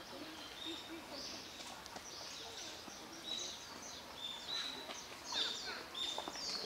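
Small birds calling: short, high chirps repeated about once a second, with quick falling notes from about halfway on, over faint distant voices.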